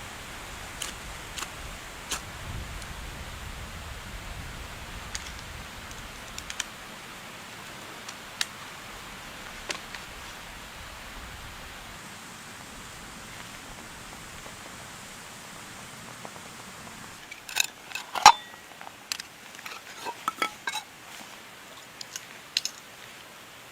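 Steady rain with scattered drops tapping. In the last several seconds comes a run of sharp clinks and knocks, the loudest a little after the middle of that run, typical of a metal pot or camp utensils being handled.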